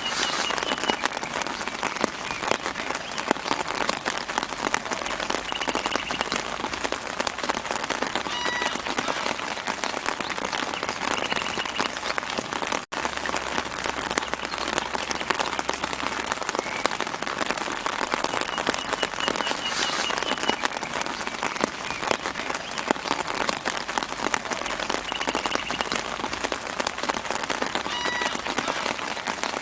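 Steady soft rain falling on leaves, a dense patter of small drops, with faint short bird chirps now and then. The rain cuts out for an instant about halfway through.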